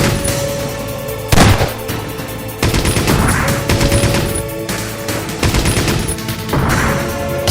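Action soundtrack music with rapid machine-gun fire, punctuated by several heavy hits.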